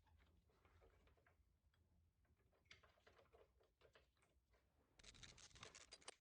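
Near silence with faint scattered clicks, then a short stretch of faint rustling near the end.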